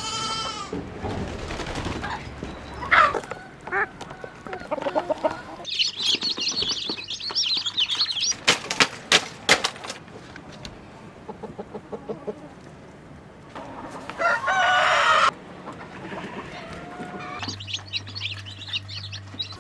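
Chickens clucking, with wings flapping and a rooster crowing, in a string of short segments that change abruptly; a loud call about fourteen seconds in and high chirping at times.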